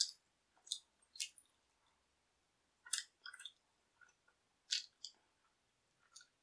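Close-up mouth sounds of a person chewing and biting into a slice of pizza: a string of short, crisp smacks and crunches, irregularly spaced, one or two a second.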